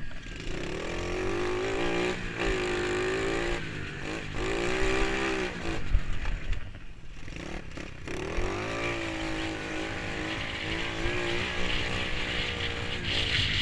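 Pit bike engine revving hard, its pitch climbing and dropping repeatedly as the throttle opens and shuts. A short sharp knock about six seconds in. Then a longer, steadier run.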